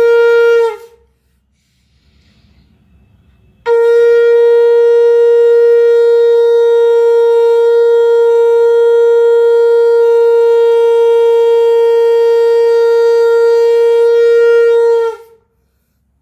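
Conch shell (shankh) blown: one blast cuts off just under a second in, and after a pause of about three seconds a long, steady blast on a single note holds for about eleven seconds, sagging slightly in pitch as it ends.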